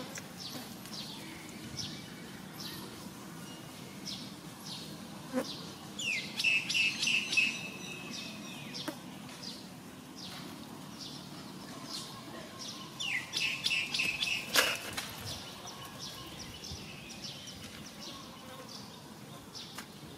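Birds chirping over and over, with two louder bouts of rapid chirping about six and thirteen seconds in, each opening with a short upward glide. A single sharp click comes near the end of the second bout.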